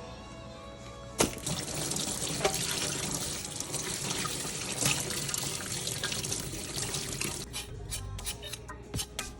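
Water from a kitchen tap running into a sink, starting just after a knock about a second in and stopping around three-quarters of the way through; a run of small knocks and clicks follows.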